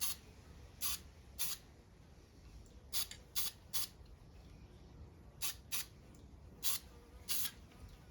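Aerosol can of dark grey spray paint hissing in short squirts, about ten quick sprays of a fraction of a second each, spaced irregularly.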